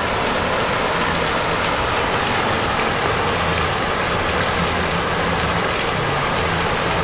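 Steady rushing of water, a loud even wash with no breaks.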